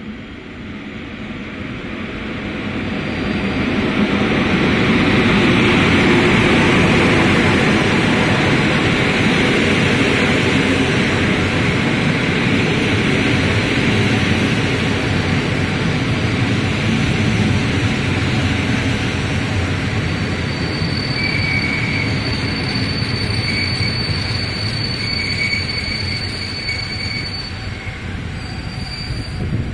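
Passenger train hauled by an EP08 electric locomotive passing along a station platform: the noise swells as the locomotive comes up over the first few seconds, then the carriages roll past in a steady rush of wheels on rail. In the last third a thin, high squeal joins in.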